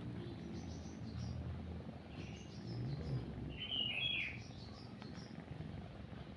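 Small birds chirping in short scattered calls, the loudest a quick run of chirps about four seconds in, over a steady low cat purr.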